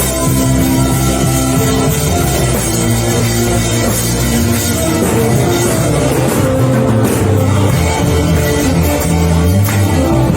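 Live worship band playing an instrumental passage, with sustained chords and drums.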